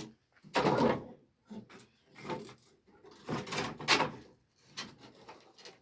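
A series of short scraping and rustling noises, one after another. The loudest comes about a second in, and another long one comes around the middle.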